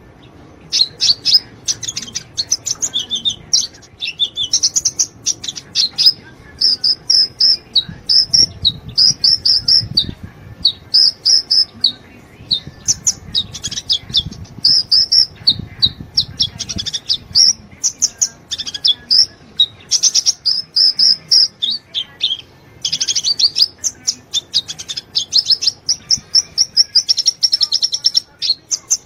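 Sunbird song, the 'kolibri ninja' kept by Indonesian bird keepers: loud, rapid strings of high chirps and trills, phrase after phrase with short pauses between.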